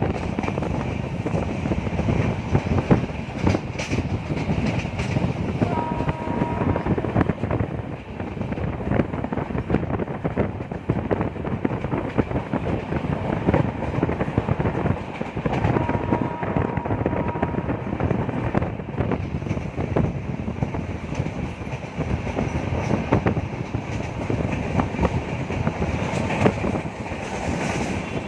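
Express train coaches running on the rails: a steady rumble with dense clickety-clack of wheels over rail joints. Two brief faint high tones come through about 6 and 16 seconds in.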